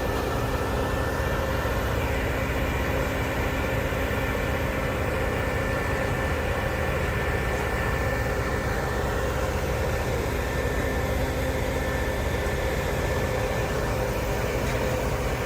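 Large industrial wood grinder running steadily, its heavy diesel engine holding a constant pitch with no sudden changes.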